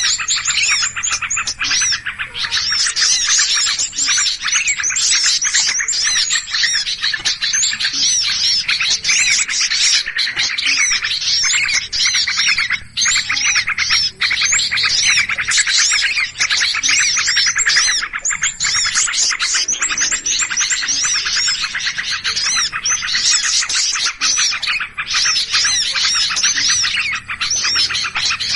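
Bird-lure recording of many small songbirds chattering and calling in a noisy commotion, dense overlapping chirps without a break.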